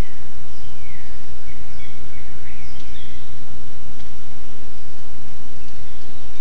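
Birds giving short chirps and calls over a loud, steady hiss of background noise with a low rumble beneath it.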